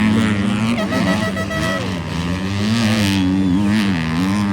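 250-class motocross bikes racing around the track, engines revving up and down as riders work the throttle through the jumps and turns. A steady horn-like tone sounds for about a second, about a second in.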